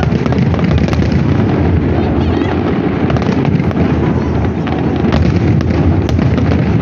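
Fireworks display: a continuous dense rumble of bursting shells, with sharp cracks and pops standing out now and then.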